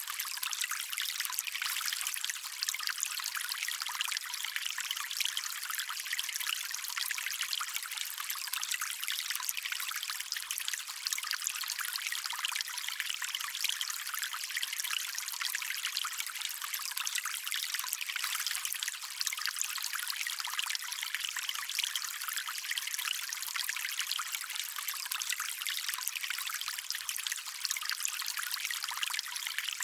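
Shallow stream water trickling and running steadily over stones, a bright, even splashing with little low rumble.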